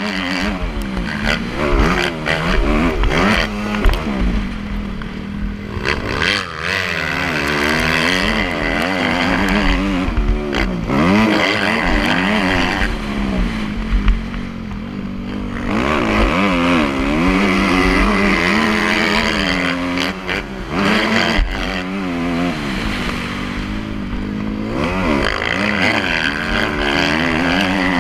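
Motocross dirt bike engine being ridden hard, revving up and falling back again and again as the throttle opens and closes, with several longer stretches at high revs.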